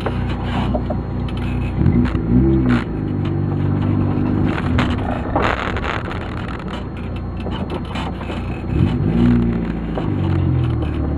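A motor vehicle's engine running, its revs climbing twice, about two seconds in and again near the end, with scattered light clicks and scrapes.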